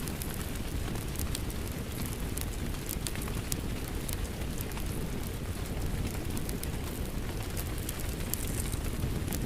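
Steady rain mixed with a crackling wood fire, with many small sharp crackles and pops over a low, even rumble.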